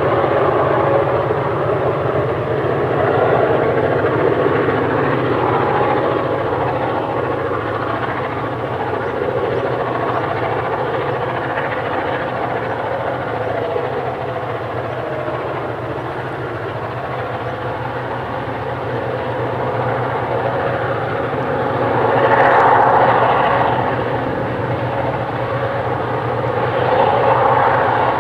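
EMD diesel-electric locomotives' two-stroke engines working hard, a loud steady drone that swells about 22 seconds in and again near the end.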